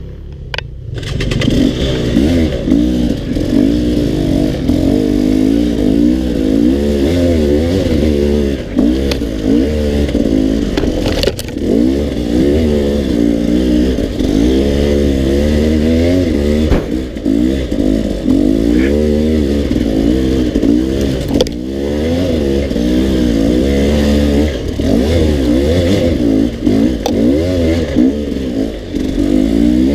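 Dirt bike engine being ridden on a trail, its revs rising and falling over and over as the throttle is worked, with occasional knocks and clatter. The engine swells up about a second in.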